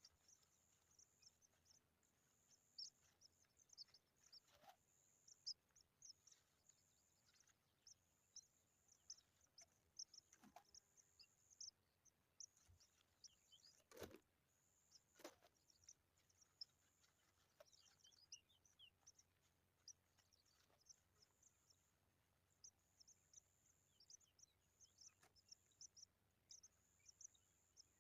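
Faint, high-pitched bird chirping repeated almost without pause, with a sharp click about halfway through and another a second later.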